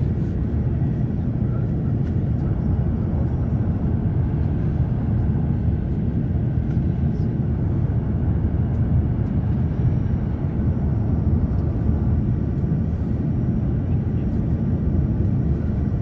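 Steady cabin noise inside an Airbus A350-1000 airliner: an even, low rumble of engines and airflow.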